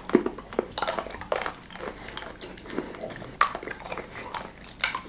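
A person biting and chewing chocolate: a string of short, irregular crunches and clicks.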